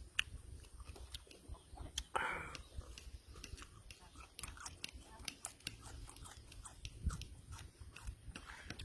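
A man chewing and biting raw fish and papaya salad close to the microphone, with many sharp wet clicks from the mouth and a short crunch about two seconds in.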